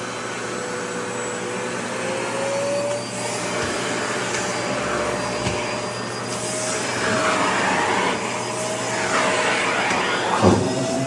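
Vacuum cleaner running steadily, its motor whine wavering slightly in pitch as the fabric of a thin sleeveless dress is drawn against the nozzle with rustling swishes. There is a brief thump near the end.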